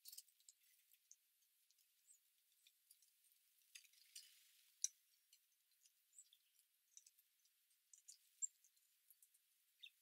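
Faint, scattered high ticks, clicks and brief chirps from small garden birds at a feeder, with one sharper click near the middle.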